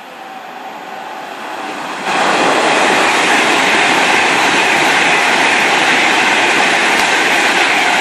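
Train passing close by at speed: a rushing rumble of wheels on rail that swells, jumps up sharply about two seconds in and holds loud.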